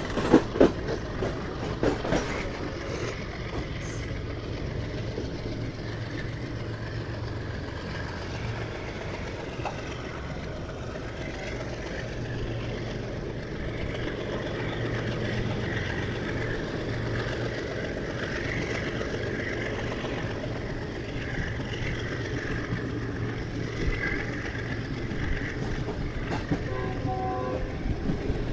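Passenger train running, heard from on board: a steady rumble of the carriage and wheels on the rails, with a low steady hum. A brief horn sounds near the end.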